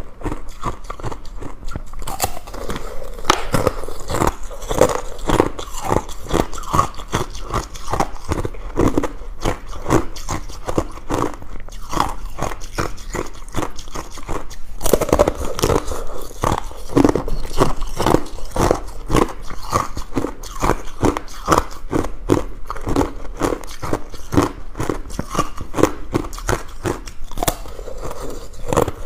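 Ice being bitten and chewed, a continuous run of crisp crunches a few to several times a second, without pause.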